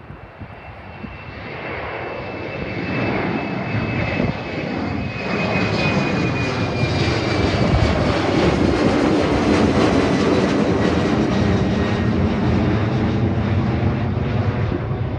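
Airliner's engines at takeoff power as it departs and passes close by, growing louder over the first several seconds and then staying loud. A high engine whine in the sound slowly drops in pitch as it goes past.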